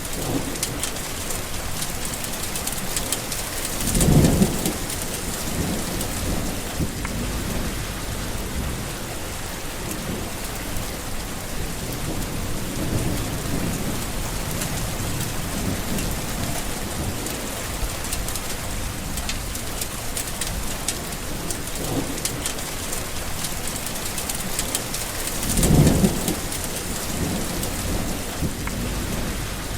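Steady heavy rain falling, with thunder: two short, louder rumbles about four seconds in and near the end, and fainter low rumbling in between.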